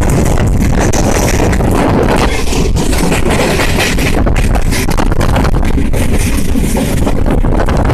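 Passenger train running at speed, heard from on board: a loud, steady rush and rumble of the moving train with wind buffeting the microphone.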